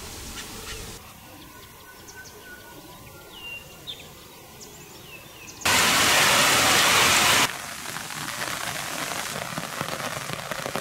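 Faint short high chirps over a quiet background, then about six seconds in, loud heavy rain drumming on a galvanised corrugated-steel tank lid starts abruptly. After a second or two it gives way to a softer steady rain hissing onto standing water.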